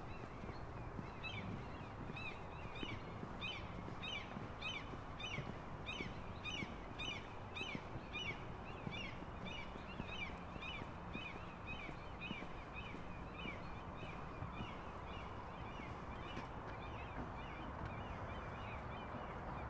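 A bird calling over and over, short high calls about two a second, growing fainter in the second half, over steady low background noise.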